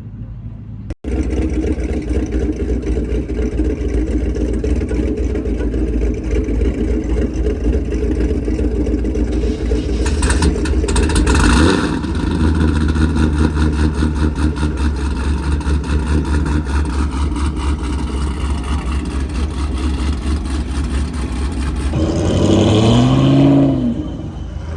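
Loud car engine idling with a fast, rough exhaust pulse. It changes note about halfway through and revs up and back down once near the end.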